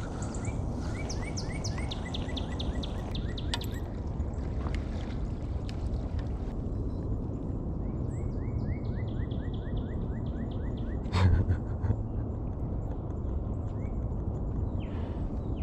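A bird sings two runs of quick, repeated high notes over a steady low background noise. There is a single loud knock about eleven seconds in.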